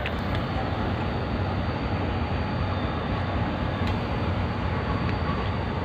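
A rake of passenger coaches being hauled past on its way to the washing line: a steady rumble of wheels on the rails, with a low hum underneath.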